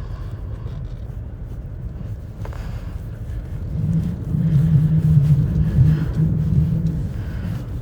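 Car road and engine noise heard from inside the moving car: a steady low rumble. A low hum joins it about halfway through, grows louder for a few seconds and eases off near the end.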